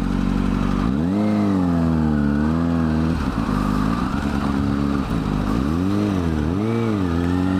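600 cc sportbike engine idling, revved in about four short throttle blips that rise and fall in pitch.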